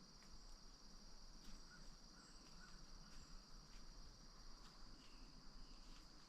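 Faint, steady, high-pitched trill of crickets in the woods, unbroken throughout, with a few faint short chirps and ticks over it.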